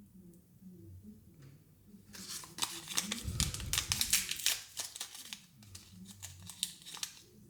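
Thin plastic packaging crinkling and crackling as it is handled and opened, starting about two seconds in and dying down near the end.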